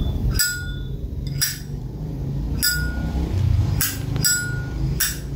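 Chrome Zippo lighter's hinged lid being flipped open and snapped shut, about six sharp metallic clicks, several with a brief bright ring after them.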